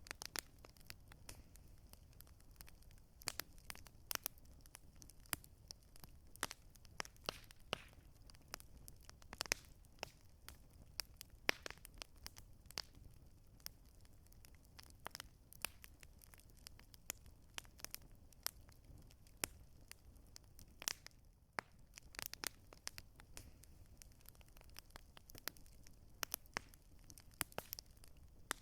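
Campfire crackling: burning wood gives off irregular sharp pops and snaps over a low steady rumble.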